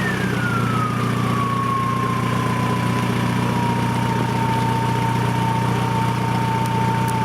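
2000 VW Jetta TDI's 1.9-litre four-cylinder turbo diesel idling steadily through a straight exhaust with the muffler removed. A high turbo whine falls in pitch over the first couple of seconds as the engine settles back to idle, then holds as a steady whistle.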